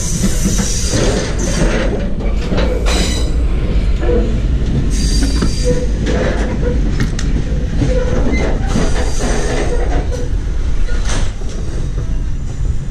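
Passenger train rolling, heard from the gangway between cars: a loud, steady rumble of wheels on rail, with rattling clacks and faint metallic wheel squeals. The noise drops a little near the end.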